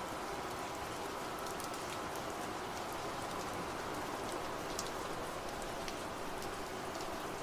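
Steady rain falling, an even hiss with scattered sharp drop ticks landing on a surface.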